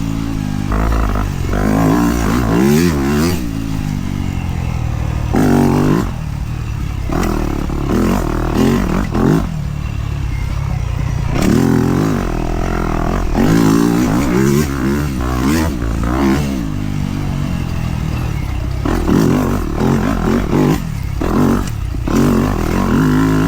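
Dirt bike engine revving up and dropping off over and over as the throttle is worked on a trail ride, with scattered knocks and rattles from the bike.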